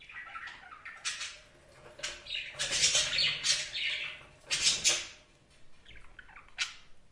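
Budgerigars chattering and warbling, with rapid, high-pitched squawks and chirps, loudest in the middle.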